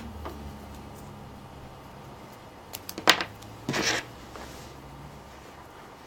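Hand work on a power adapter plug: a couple of small clicks and a sharp scrape about three seconds in, then a short rasp just under a second later, over a low steady hum.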